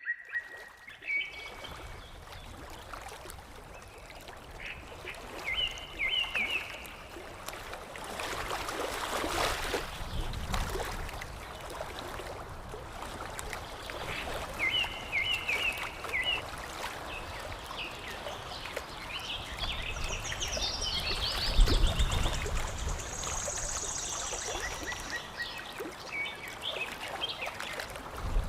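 Birds calling in short bursts of rapidly repeated notes over water lapping and splashing; the loudest moment is a low splash a little past the middle.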